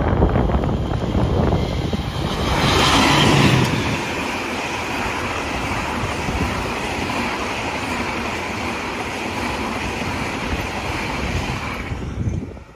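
Diesel-hauled passenger train passing close by: the locomotive's heavy rumble goes past in the first few seconds, then a steady rush of the coaches' wheels on the rails, which drops off suddenly near the end as the last coach clears.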